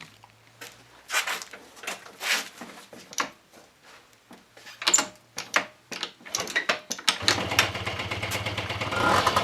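Freshly rebuilt Honda Dio AF27 scooter's 50 cc two-stroke engine being cranked in a series of short strokes. It catches about seven seconds in and settles into a steady idle, running smoothly without knocking.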